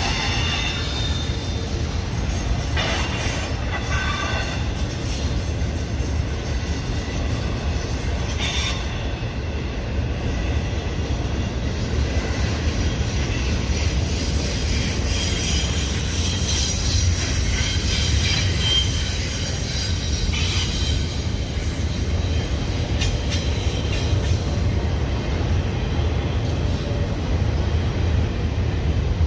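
Union Pacific intermodal freight train rolling past: a steady low rumble of the cars, with thin, high wheel squeal from the rails and a few sharp clicks.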